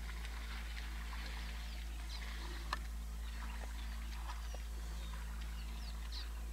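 Scattered short bird chirps over a steady low hum, with one sharp click a little under three seconds in.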